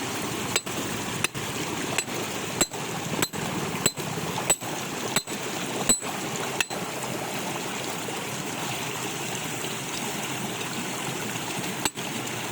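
Steady rushing of water, with a regular series of sharp knocks, about three every two seconds, that stops partway through and starts again near the end.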